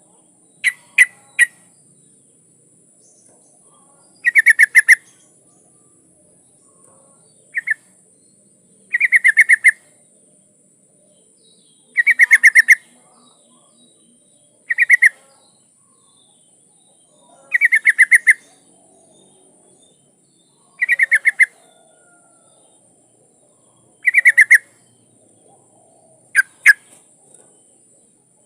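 Yellow-vented bulbul (trucukan) singing: short bubbly phrases of rapid notes, repeated every two to three seconds. It is presented as a female calling to attract a male.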